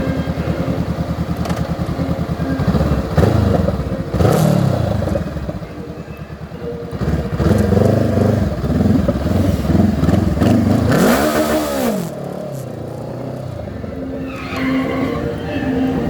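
Motorcycle engines running and revving in traffic, the pitch climbing and dropping repeatedly, with one sharp rise and fall of revs and a burst of hiss about eleven seconds in.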